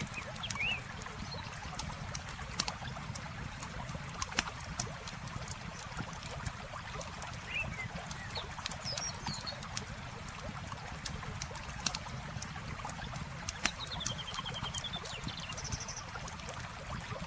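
Campfire crackling, with many sharp pops and snaps over the steady sound of flowing water. A few short bird chirps come through, including a quick falling run of notes near the end.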